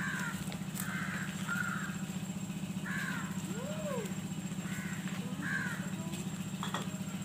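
Birds calling: about six short calls, each dropping slightly in pitch, spaced over several seconds, over a steady low hum.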